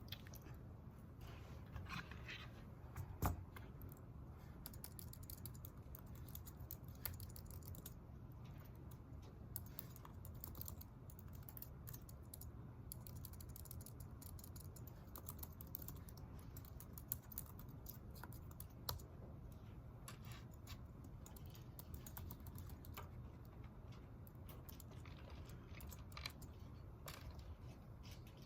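Typing on a computer keyboard: irregular soft key clicks over a low steady hum, with one louder knock about three seconds in.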